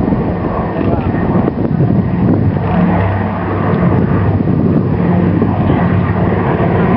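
Consolidated PBY Catalina flying boat's twin radial piston engines running steadily in a loud, low drone, with a slight rise and fall in pitch.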